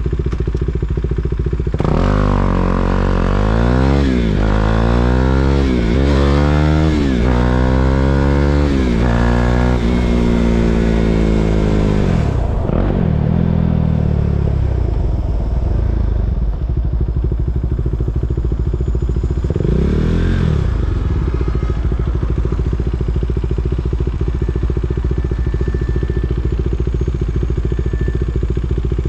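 KTM Duke 390's single-cylinder engine pulling away and accelerating through the gears, its pitch climbing and dropping back at each of four or five upshifts. About twelve seconds in the throttle closes and the note falls away; a short rise in revs comes near twenty seconds, then it settles to a steady low running note.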